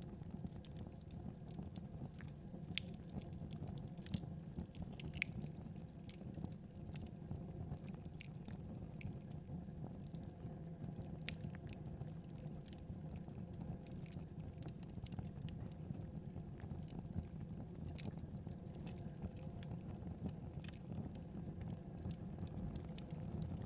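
Wood fire crackling: a steady low rumble of burning, with sharp pops and snaps scattered irregularly throughout.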